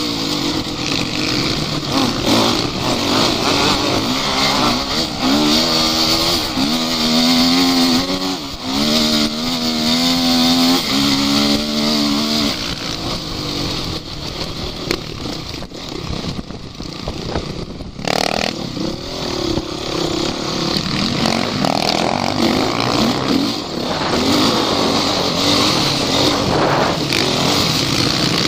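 Off-road vehicle engine working hard, revving up and down again and again. There is a quieter stretch a little past halfway, then it runs on under load.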